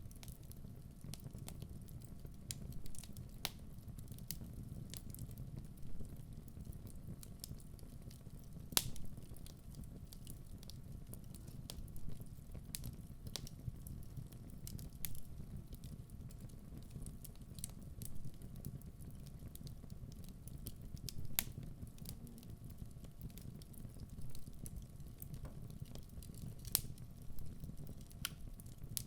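Wood fire burning in a fireplace: a steady low rumble of flames with irregular crackles and pops from the burning logs, the loudest pop about nine seconds in.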